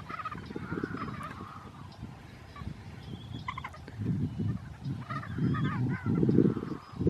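Birds calling, a few separate calls with one rapid stuttering call about halfway through, over a low rumbling noise.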